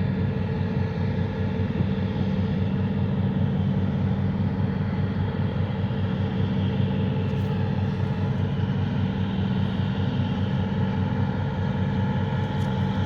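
Tugboat's diesel engines running under load, a steady low drone with an even hum, as it tows a disabled 700-foot cargo ship.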